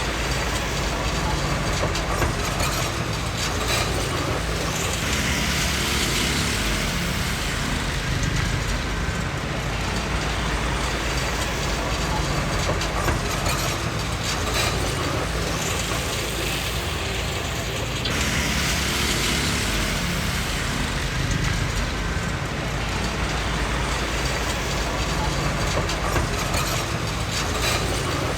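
Komatsu D20P crawler bulldozer working: its diesel engine runs steadily under the clatter of its steel tracks and moving parts, with a harsher hissing, grinding noise that swells twice, about five and eighteen seconds in.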